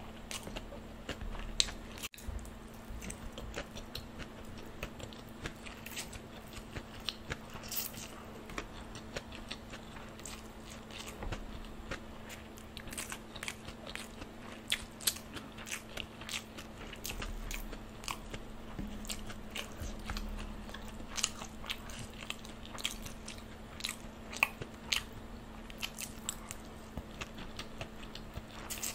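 Close-miked eating of veg chow mein noodles: chewing and slurping, with many small wet mouth clicks and crunches in a quick, irregular run.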